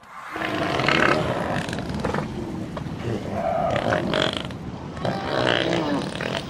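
A series of short, rough animal calls, several in a row, with no clear pitch.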